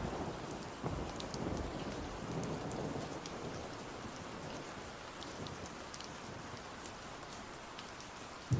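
Steady rain falling, with a low thunder rumble dying away over the first few seconds and scattered faint drips or ticks.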